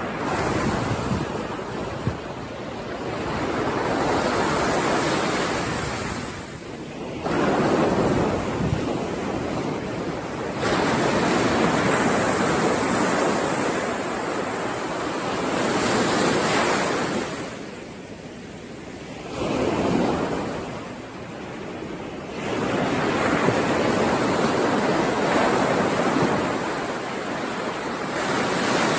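Sea waves breaking and washing up on a shore, one surge after another every few seconds, each swelling up and then falling away.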